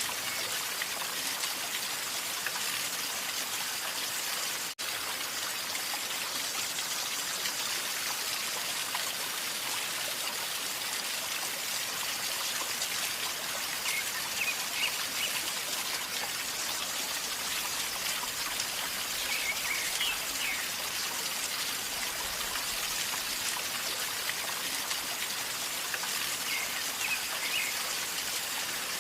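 River water flowing and gurgling steadily, with a split-second break about five seconds in. A bird chirps briefly a few times, around halfway and near the end.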